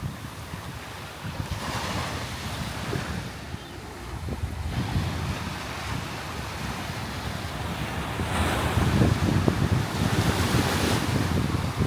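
Sea waves breaking and washing up the shore, two surges of surf, the second and louder one starting about eight seconds in, over a steady low rumble of wind buffeting the microphone.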